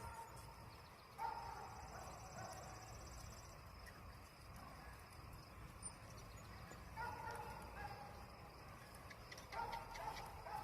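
Farm animal calls: three short pitched calls, about a second in, around seven seconds in and near the end, over a quiet outdoor background.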